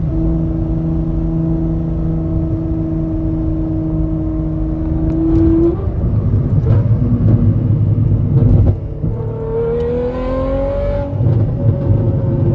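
Straight-piped Ferrari 812 Superfast's naturally aspirated V12 running at steady cruising revs, lifting slightly about five seconds in, then revving up in a rising sweep near ten seconds before settling back to a steady note.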